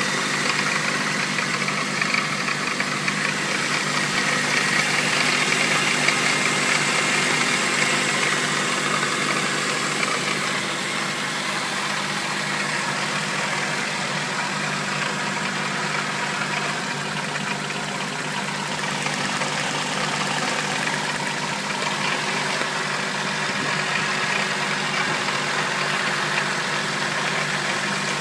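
Honda D16Z6 1.6-litre SOHC VTEC four-cylinder engine running steadily at idle with a knocking noise. The owner says it is not a connecting rod bearing knock and does not know its cause.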